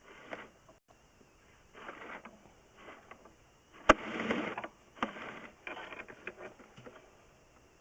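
Irregular scraping and rustling handling noises in short bursts, with one sharp click about four seconds in.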